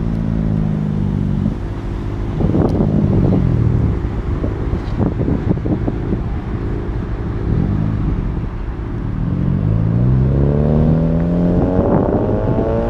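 Car engines running and revving as cars pull out, with short throttle blips and then one engine rising steadily in pitch as it accelerates away in the second half.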